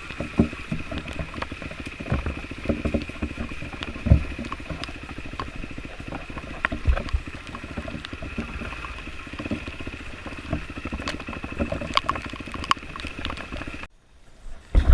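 Dirt bike engine running at low speed over a rough, wet trail, with frequent knocks and thumps from the ride and a steady high whine. The sound cuts off abruptly about a second before the end.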